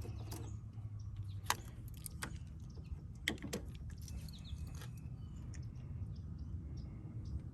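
A few sharp clicks and knocks of hand work on a loose car part as it is taken off and refitted, with a steady low rumble underneath and faint bird chirps in the second half.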